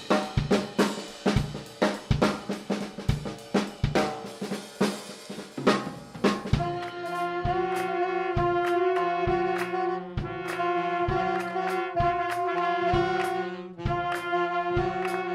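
Student band of brass and drum kit playing. It opens with about six seconds of rapid drum hits, then the brass comes in with sustained chords over a steady drum beat.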